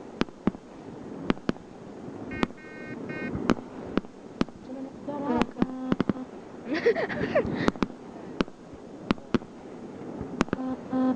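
Distant fireworks going off, a dozen or more sharp pops and bangs at irregular intervals, some close together.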